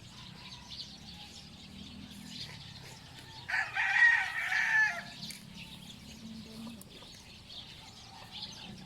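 A rooster crowing once, about three and a half seconds in, for under two seconds, loud against a faint background.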